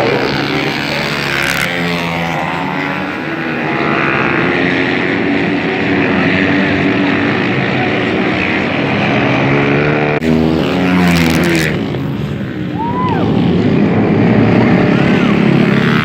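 Several dirt-track racing motorcycle engines running at race speed, rising and falling in pitch as the riders accelerate and back off through the turns.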